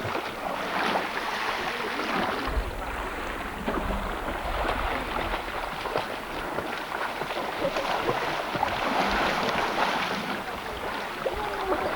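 Sea water splashing and waves washing, with wind buffeting the microphone for a couple of seconds near the start.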